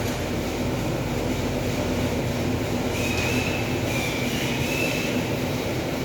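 Steady machinery noise with a rumble, and a faint high squeal for about two seconds near the middle.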